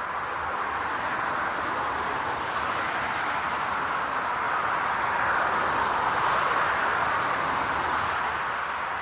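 Jet airliner's engines, a steady rushing noise that swells to its loudest about six seconds in and then eases a little as the aircraft passes.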